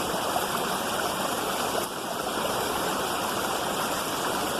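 Waterfall: a steady rush of falling water, dipping briefly in level about two seconds in.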